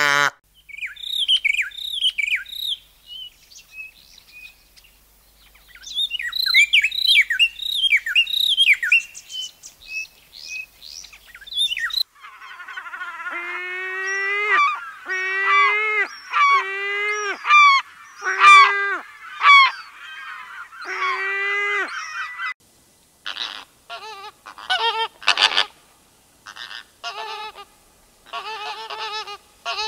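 Birds calling. For about the first twelve seconds small birds chirp in quick, high, downward notes. Then a larger bird gives a run of about nine loud calls, roughly one a second, followed near the end by a string of short, harsh calls.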